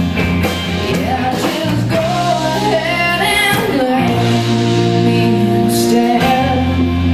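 Live rock band playing, with a female lead singer holding a long, wavering sung line over bass, guitar and drums.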